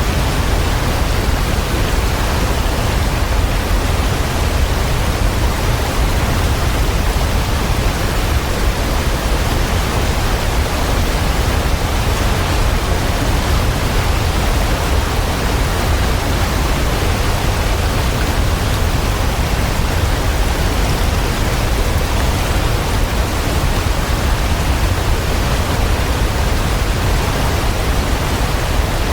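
Waterfall: a steady, unbroken rush of falling water with a deep low rumble under it.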